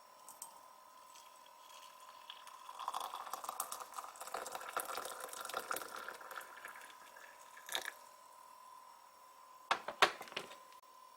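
Water splashing and trickling for a few seconds, followed by a sharp click and then two knocks near the end, over a faint steady high whine.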